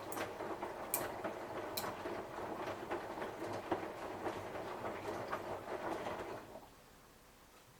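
Samsung washing machine drum turning on a 60 °C cotton wash, the wet load tumbling with a clattering patter of small knocks. The drum stops about six and a half seconds in, leaving only a faint hum.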